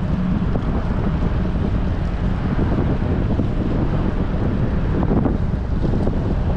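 Steady wind buffeting and rumbling on a bicycle-mounted GoPro's microphone while riding in strong wind.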